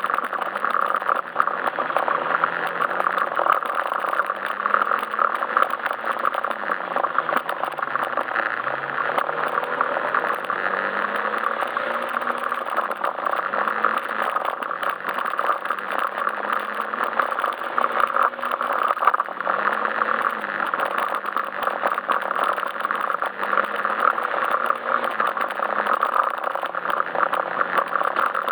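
Yamaha Majesty S scooter's single-cylinder engine running while riding, its pitch rising and falling with the throttle, under a steady rushing noise.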